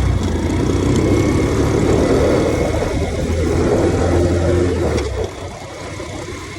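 Motorcycle engine running under way, a steady low engine note; about five seconds in the note drops away and the sound gets quieter.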